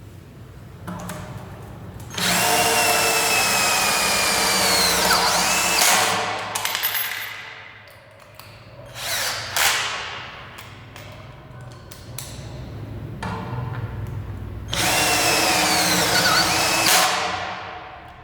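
12 V cordless drill driving screws into 1.4 mm galvanized steel box section: two long runs of the motor, its whine dropping in pitch as each screw bites into the steel, with short bursts of the drill in between.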